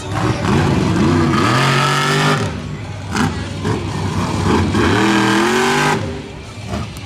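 Monster truck's big V8 engine revving hard: the pitch climbs and holds high for about a second, drops off, then climbs and holds again in the second half before falling away.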